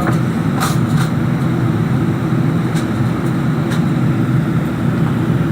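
Steady, loud rumble of a Boeing 777-300ER airliner as heard from inside the passenger cabin, with a few short clicks along the way.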